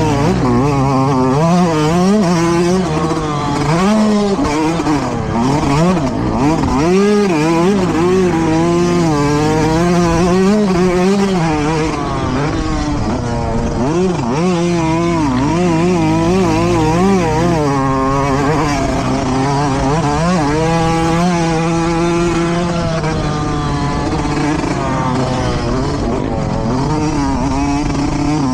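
Several motocross dirt bikes racing, their engines revving up and down over and over, with more than one bike heard at once.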